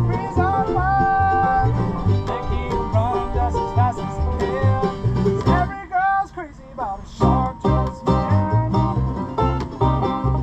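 Acoustic bluegrass band playing a tune, with banjo picking over guitar and a steady low bass beat. About six seconds in, the band drops away for about a second while a single sliding melody line carries on, then everyone comes back in.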